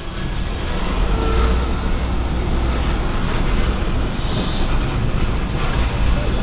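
Covered hopper cars of a freight train rolling past a level crossing: a steady rumble of wheels on rail, heard from inside a car.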